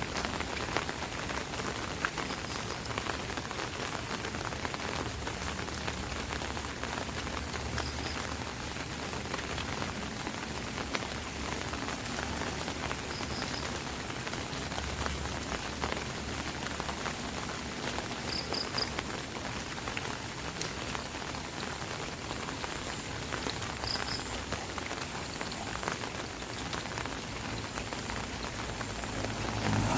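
Rain falling on an umbrella: a steady patter of many drops tapping on the fabric canopy.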